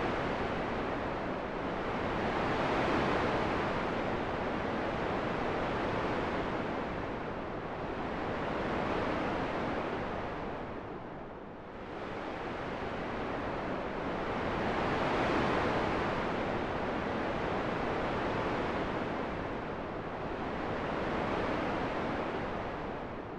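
Steady wind noise, a rushing hiss that swells and eases in slow gusts about every six seconds, dipping lower about halfway through and near the end.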